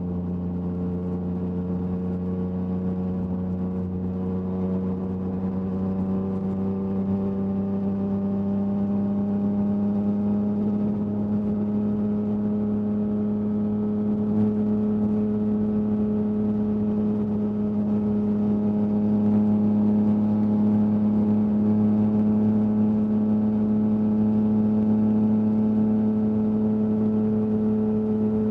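Yamaha MT-09's three-cylinder engine through an Akrapovic exhaust, running steadily under way. It is a continuous drone whose pitch climbs slowly and smoothly, with no gear changes, and gets a little louder in the second half.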